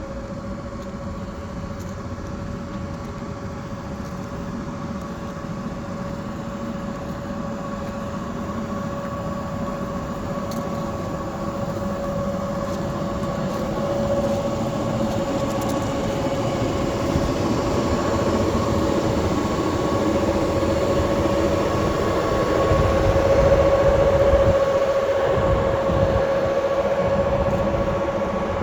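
R17 New York City subway car running on rail: a steady tone over the rumble of the running gear. It grows gradually louder through most of the stretch, then eases a little near the end.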